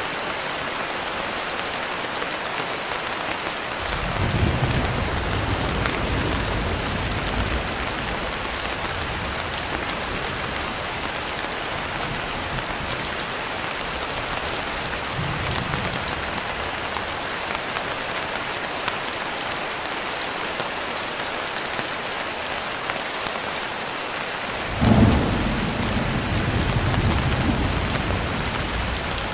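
Steady heavy rain hissing, with two rolls of thunder: a low rumble about four seconds in and a sharper, louder crack and rumble near the end, plus a faint distant one midway.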